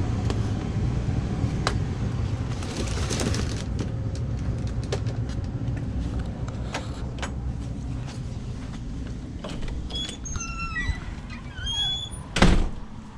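A steady low machine rumble that slowly fades, with scattered light clicks, a few short high chirps near the end, and a single loud bang just before the end.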